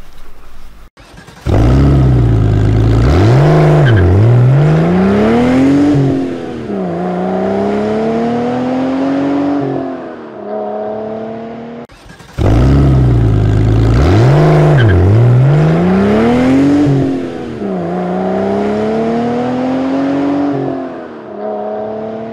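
Car engine revving up and down, then accelerating with the pitch climbing steadily, dropping at a gear change and climbing again. After a brief cut about halfway through, the same stretch plays a second time.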